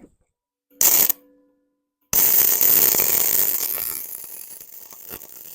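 MIG welder arc crackling and hissing on steel: a short burst of about half a second, then a longer weld run of about three seconds that starts abruptly and slowly fades, welding up a chased-out crack.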